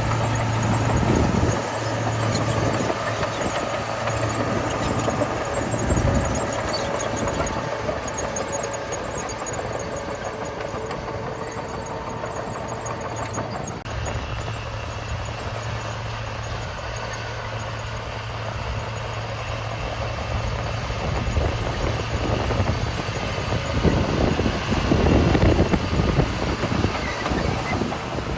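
Heavy diesel earthmoving machinery working: a steady engine hum under high metallic squealing, getting louder and rougher near the end.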